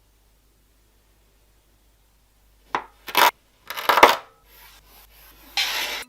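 Kinetic sand being worked: after a silent start, a run of short gritty scrapes and crunches begins about two and a half seconds in, with a longer rasping scrape near the end.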